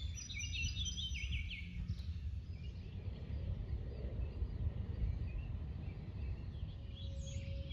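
A small songbird sings a quick run of high notes stepping downward in the first two seconds, and more bird calls come near the end. Under them is a steady low outdoor rumble. A steady mid-pitched tone begins near the end.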